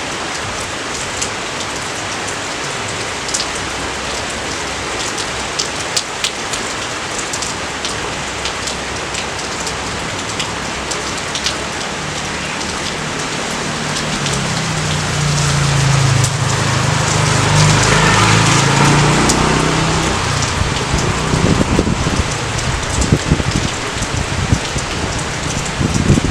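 Steady rain falling, with individual drops ticking sharply through the hiss. About 14 seconds in, a low rumble of thunder swells, then fades again by about 20 seconds.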